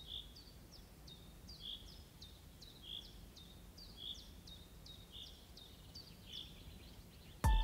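A songbird repeating the same short two-note call over and over, a high downward-sweeping note with a lower note just after, about once every second, over a faint low background rumble. A music track comes in right at the end.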